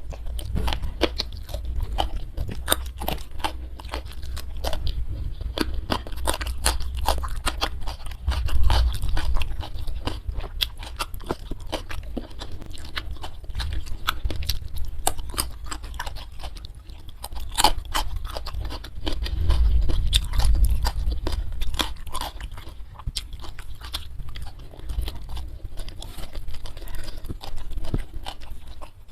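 Close-miked chewing and crunching of food, a dense run of small crisp clicks throughout, with heavier, louder stretches about a third and two-thirds of the way through.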